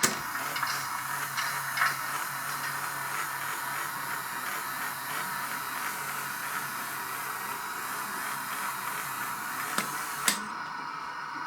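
Steady steam hiss from a model steam locomotive's sound decoder, with a faint low hum and a few soft clicks.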